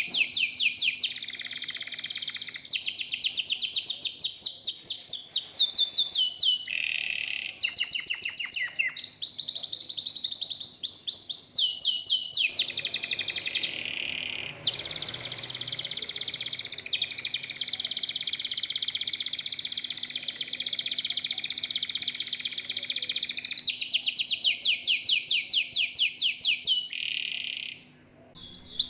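Canary singing long, continuous runs of fast trills and rolls, its phrases changing every few seconds. The song breaks off briefly near the end.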